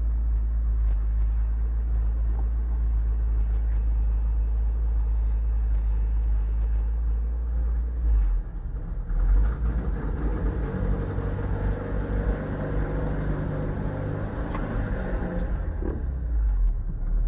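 1985 Toyota MR2's engine running poorly, heard from inside the cabin: a steady low idle, then about eight seconds in the car pulls away and the engine note rises and shifts as it accelerates, weak and down on power.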